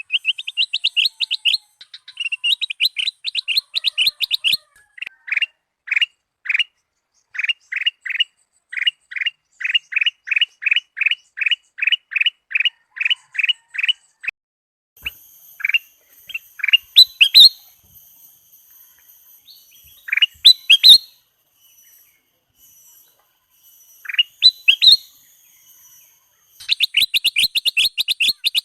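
Kutilang emas (a golden bulbul) singing, varied: a fast run of repeated high notes, then a long even series of about two clear down-slurred whistles a second, then scattered upswept notes, and the fast run again near the end.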